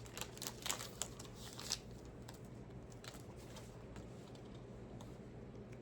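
Pokémon card booster pack and cards being handled: a few soft crinkles and clicks of the foil wrapper and cards in the first two seconds, then only faint room hum.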